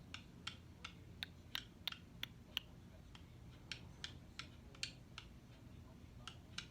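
Faint, irregular run of short, sharp clicks, about three a second with a brief pause near the end, from a pet baby bird.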